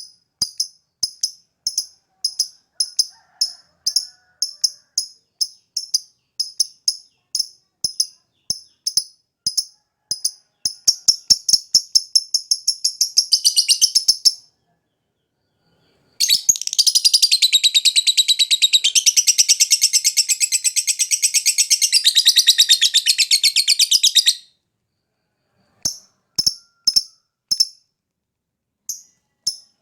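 Lovebird calling in short sharp chirps about two a second, which speed up into a fast chatter. After a short pause comes a long unbroken rapid trill of about eight seconds, then the single chirps resume. This is a lure recording played to prompt lovebirds that are slow to sing.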